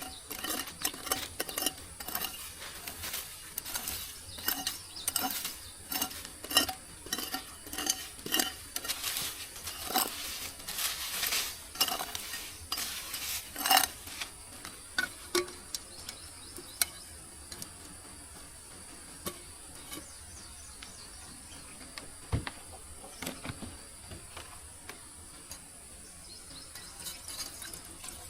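A metal utensil stirring and clinking against a cooking pot, with repeated strikes for about fourteen seconds, then only occasional taps. A steady high hiss runs underneath.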